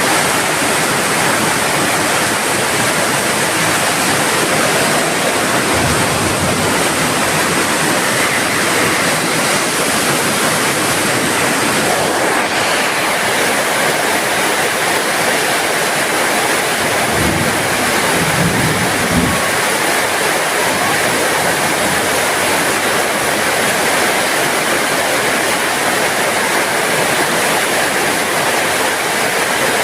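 Heavy rain falling steadily, a dense even hiss. A brief low rumble passes under it a little past the middle.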